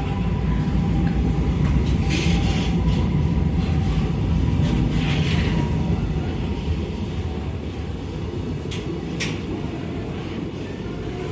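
Container freight train hauled by an EF210-100 series electric locomotive rolling past at very low speed, its wheels on the rails making a steady low rumble. Two sharp clicks come about three-quarters of the way through.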